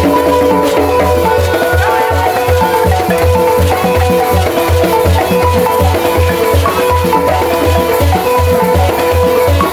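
Senufo balafon music: wooden-keyed balafon notes over a fast, steady low drum beat, with shakers or rattles.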